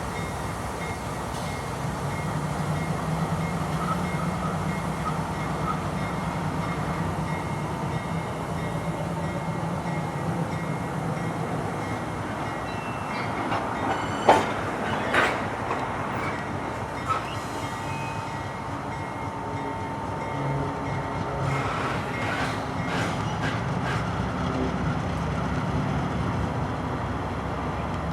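Diesel freight locomotive running slowly with its cut of freight cars, a steady engine rumble under wheel noise. Two sharp clacks come about halfway through, a second apart, and a thin wheel squeal follows for a few seconds.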